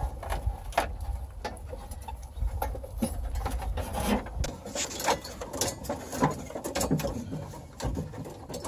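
Irregular knocking, clicking and rattling of hands and tools working at a GMC truck's dashboard parts, prying and pulling at a piece that is riveted in place. A low rumble sits under the first half.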